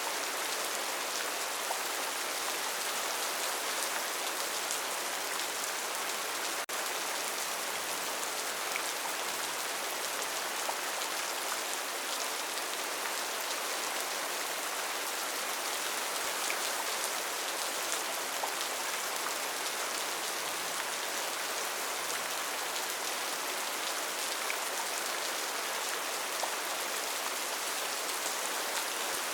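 Steady rainforest rain: an even hiss of falling rain, with faint scattered drop ticks.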